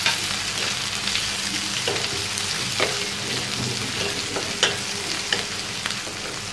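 Chopped small onions, crushed garlic and dried red chillies sizzling in oil in a metal kadai while being sautéed, stirred with a wooden spatula that scrapes and knocks against the pan several times.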